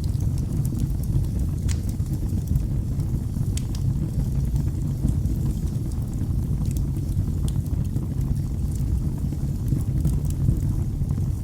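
Wood fire burning in a fireplace: a steady low rumble of flames with scattered sharp crackles and pops, roughly one every second or two.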